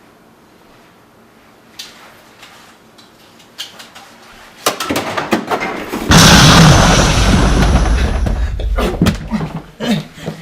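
A few sharp knocks and clatter, then a loud sudden boom about six seconds in that dies away over a couple of seconds, followed by more knocks.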